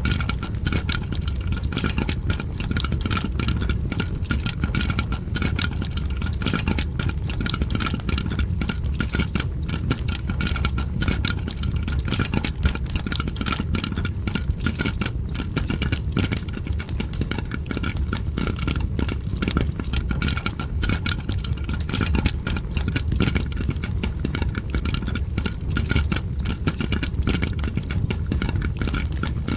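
Popcorn popping mixed with a crackling fire: a dense, continuous run of sharp pops and crackles over a steady low rumble.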